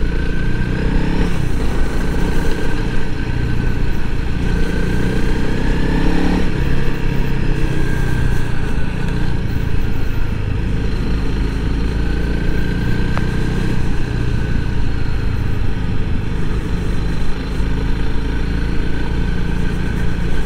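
2021 Honda CRF300L Rally's single-cylinder engine running steadily while being ridden, its pitch rising and falling a little with the throttle.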